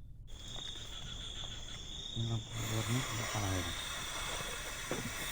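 Night insects, crickets, chirring steadily in one high band. About two seconds in comes a short low call in a few pulses, lasting about a second and a half.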